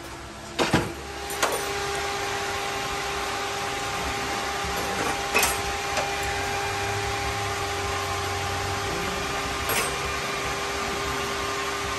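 A couple of metallic clanks, then a steady electric whir with a hum starts about a second in and keeps running, with a few light metal clinks of tools over it.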